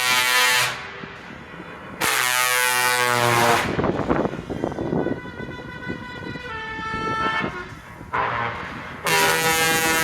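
Truck air horns blowing in long blasts, one after another, with several horns at different pitches. Loud blasts come at the start, about two seconds in and near the end, with quieter horn tones that step in pitch between them.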